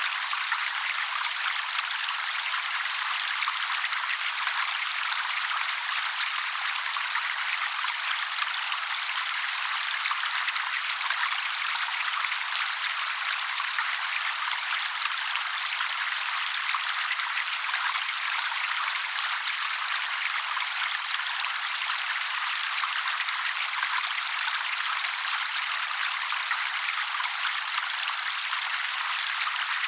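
Trickling water, a steady, even splashing hiss with no low rumble and no birdsong.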